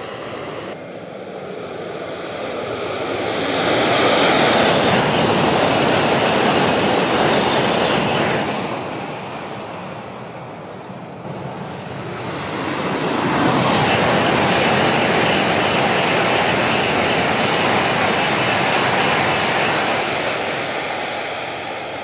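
Two Shinkansen high-speed trains passing one after the other, each a loud rushing noise that builds over a couple of seconds, holds for several seconds and fades away; the first peaks about four seconds in, the second from about thirteen seconds.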